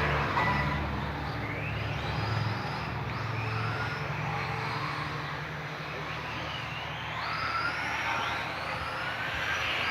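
Motors of small racing vehicles whining during a race, their pitch repeatedly rising and falling as they accelerate and slow, over a steady low hum.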